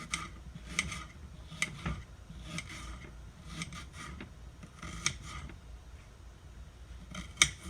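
Small kitchen knife slicing through an onion and knocking on a cutting board, a short cut roughly once a second, with a sharper knock near the end.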